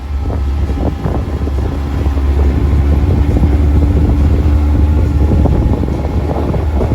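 Wind buffeting the microphone on a moving motorcycle, a steady low rumble with the bike's engine running faintly underneath.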